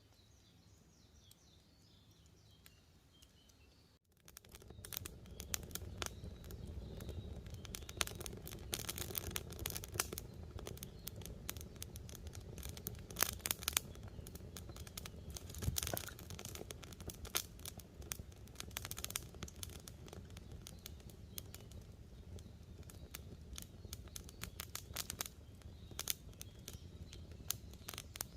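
Faint bird chirps for the first few seconds. Then, after an abrupt jump in level about four seconds in, a wood campfire crackles with frequent sharp pops over a low, steady rush of burning.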